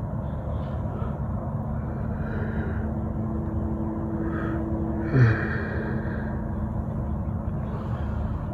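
Steady low rumble of a motor vehicle, with a held engine-like tone for a few seconds. About five seconds in a brief sound drops sharply in pitch, and faint higher calls come and go.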